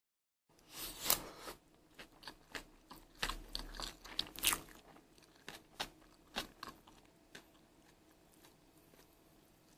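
Close-up chewing of a mouthful of kimchi fried rice with Spam and crispy stir-fried anchovies: many short crunches and wet mouth clicks, busiest in the first few seconds and thinning out towards the end.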